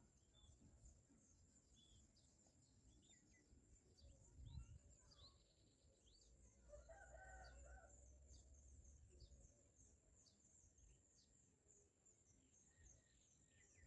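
Faint bird ambience: many short, high chirps scattered throughout, with a rooster crowing once about seven seconds in.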